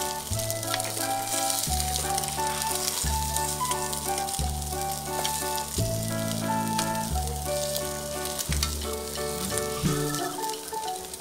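Eggplant slices stuffed with minced pork sizzling and crackling in hot oil in a frying pan, with background music playing throughout.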